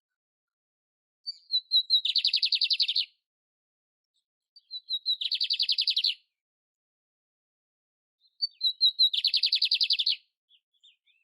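A canário império songbird singing three short song phrases a few seconds apart. Each phrase opens with a few quick high notes and runs into a fast, loud trill lasting about a second.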